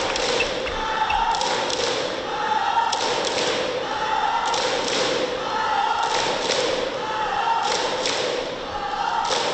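Arena crowd chanting in a steady rhythm, the chant coming around about once a second, with clapping and the knocking of plastic cheering megaphones on each beat.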